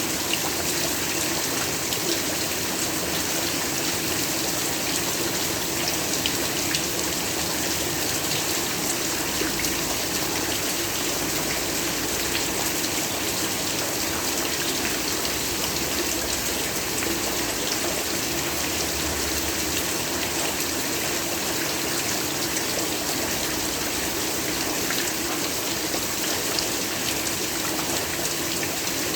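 Heavy rain falling steadily, a dense even hiss with scattered fine drop ticks.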